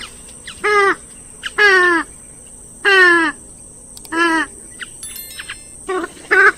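Grey-headed swamphen calling repeatedly: loud, short calls that each drop in pitch, coming about once a second, with a quicker run of calls near the end.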